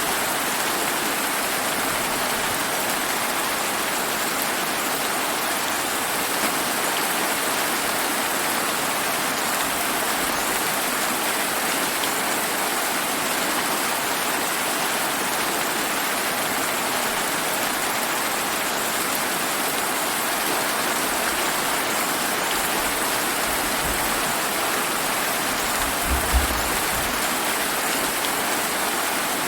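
Steady, dense summer rain falling and splashing on surfaces. From about 23 to 27 seconds in there is a brief low rumble of distant thunder.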